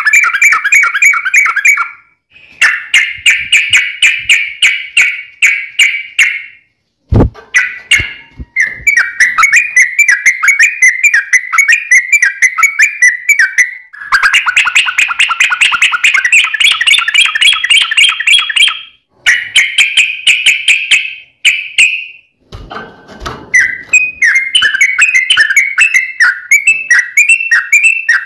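Yellow-vented bulbul (trucukan) song: long, rapid runs of bubbling, chattering notes, several runs one after another with short pauses between. A few sharp clicks come about 7 seconds in.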